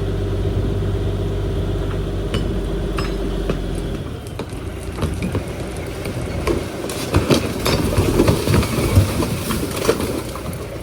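Dump truck engine running steadily for the first few seconds, then dropping away. A load of trash then slides out of the dump bed in a busy clatter of clinking and knocking debris, loudest in the second half.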